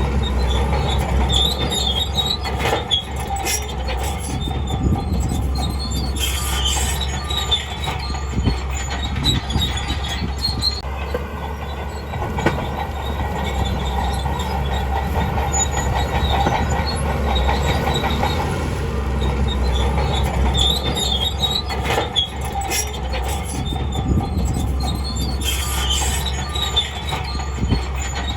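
Crawler bulldozer working: a steady diesel engine drone with the steel tracks clanking and squealing at intervals as the machine moves.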